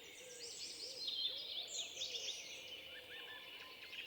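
Several birds singing at once: a faint, busy mix of quick chirps, whistled notes and trills overlapping throughout.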